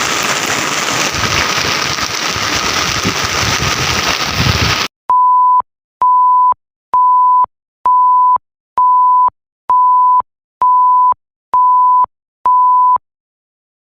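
Heavy rain pouring down as a dense, steady hiss. About five seconds in it cuts off abruptly, and a steady, mid-pitched electronic beep sounds nine times over dead silence, each beep about half a second long and just under a second apart.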